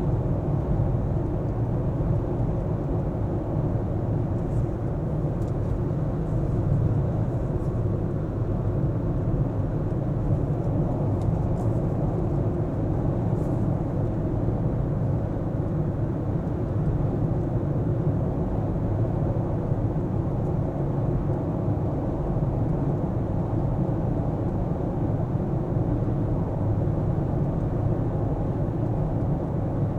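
Car driving steadily in city traffic: constant engine hum and tyre noise from the road, with no marked change in speed.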